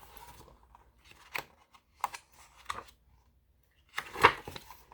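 Short paper rustles and handling noises, with a louder, longer rustle about four seconds in: a page of a picture book being turned.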